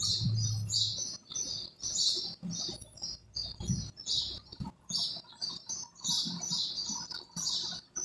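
A bird chirping over and over in quick, irregular short notes, with soft rustles and knocks of copper coils being handled and pressed into a motor stator.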